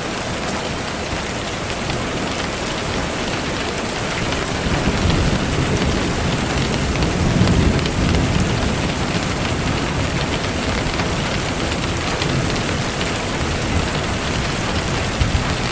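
Steady rain falling, with a low rumble of thunder swelling about five seconds in and peaking near halfway before fading back into the rain.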